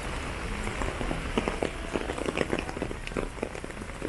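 Steady rain falling, with many sharp individual drops tapping close by from about a second in.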